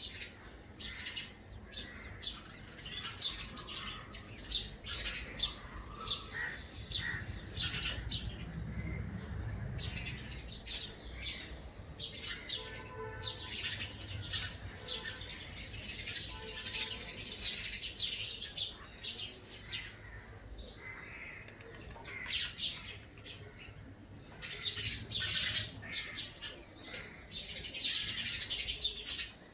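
Small bird chirping indoors, a long run of short, quick high chirps, with a brief steadier pitched call near the middle.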